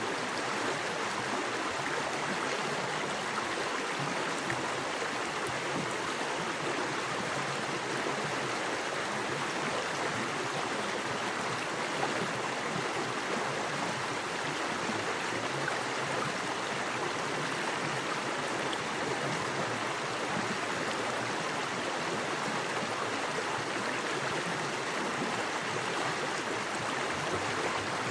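Small forest creek with fast water running over rocks: a steady, even rush of flowing water.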